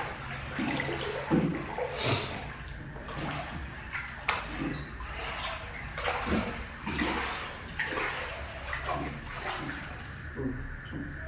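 Floodwater splashing and sloshing in irregular bursts, over a steady low hum.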